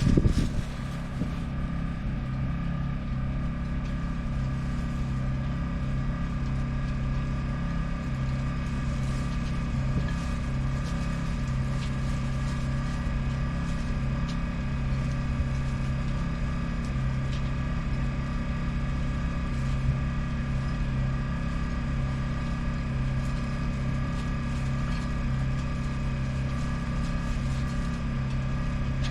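The Yanmar FX24EZ boat's engine running steadily at idle, with an even low pulsing beat and a few steady higher tones over it. A short louder burst comes right at the start.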